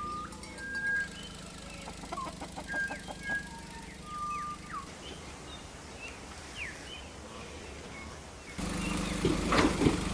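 Birds calling: many short whistled chirps and quick downward-sweeping peeps over a quiet background. Near the end the sound cuts suddenly to a louder steady noise with a low hum.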